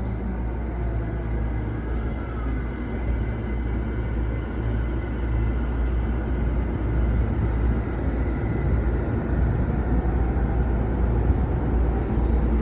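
Electric commuter train rumbling as it pulls out of the platform after the departure melody, the low rumble growing slowly louder.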